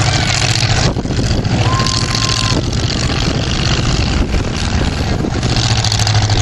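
Loud motorsport vehicle engines running with a dense, rough noise, and a short steady tone about two seconds in.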